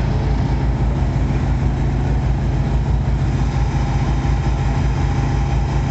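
Easton Made log splitter's engine running steadily at a constant speed, a continuous low drone with an even pulse.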